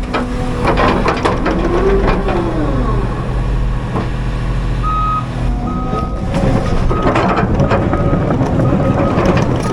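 Diesel engine of heavy land-clearing equipment running, with clanking and crackling and a brief rise and fall in engine pitch early on. From about five seconds in, a backup alarm beeps at a slow, regular pace.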